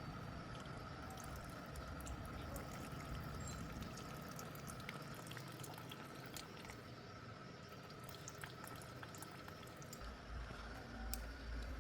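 Water dripping in irregular, scattered drops over a faint steady hum.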